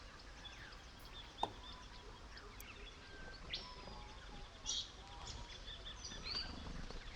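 Faint natural ambience with scattered short bird calls and chirps, one whistle rising sharply in pitch about three and a half seconds in.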